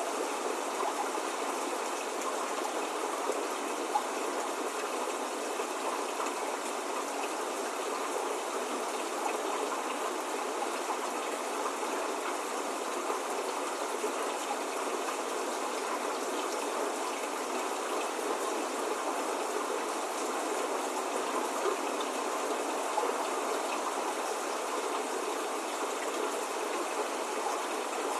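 Steady spring rain falling, an even hiss with no thunder or birdsong, and a few single drops standing out now and then.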